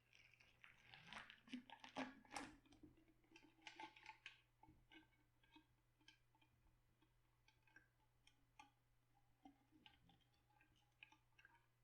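Faint, irregular crunching and crackling of shredded cabbage being handled for sauerkraut, busiest in the first few seconds and thinning out after.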